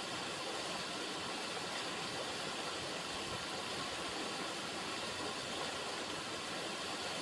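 River water running, a steady, even rush.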